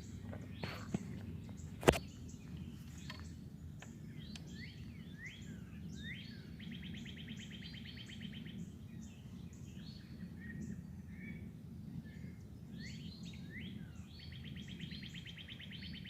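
Several songbirds singing: one repeats a fast, even trill of about two seconds, three times, while others give short rising chirps, over a steady low background hum. A single sharp click about two seconds in.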